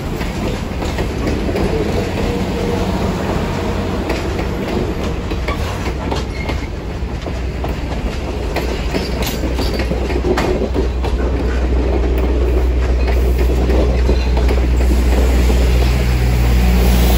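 Train rolling along the track, a steady rumble with scattered sharp clicks, growing louder and deeper toward the end.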